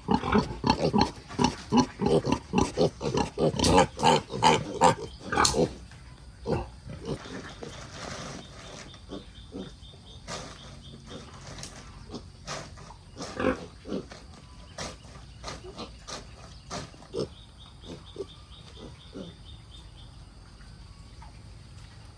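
Domestic pigs, a sow and her piglets, grunting rapidly and loudly at feeding time for the first five seconds or so. After that they go quieter, with scattered short grunts and clicks.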